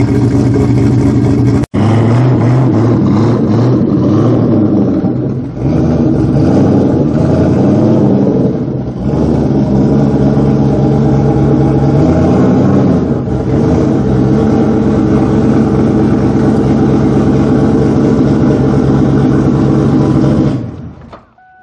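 Turbocharged V8 of a 1400 hp 2003 Mustang SVT Cobra drag car running with a loud, lumpy idle, its revs rising and falling in a few short throttle blips. The sound drops out for an instant about two seconds in and dies away near the end.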